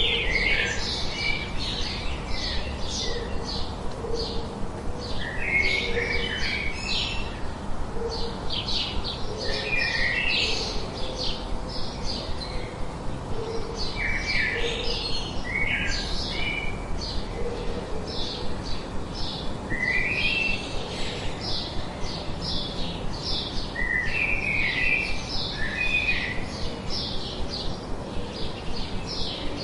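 Birds chirping: a steady stream of quick, high chirps, with lower phrases of a few notes every few seconds.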